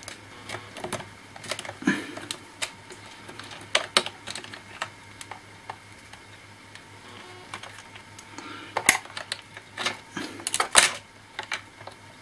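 Irregular clicks, taps and light knocks of small plastic and metal laptop parts being handled during disassembly, with a louder cluster of clicks in the last few seconds.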